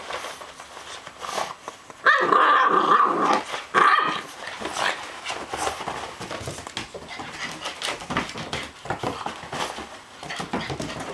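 Boxer puppy growling and barking in excited play, with two loud drawn-out calls about two seconds in. Many small knocks and clicks run through the rest.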